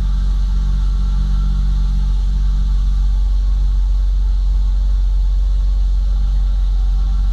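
BMW E30 320i's M20B20 2.0-litre straight-six idling steadily, still cold shortly after a cold start, with a deep, even rumble.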